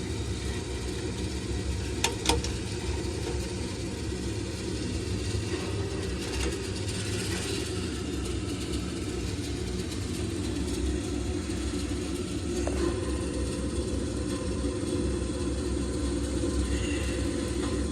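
Steady low machine hum, with two sharp clicks a little after two seconds in.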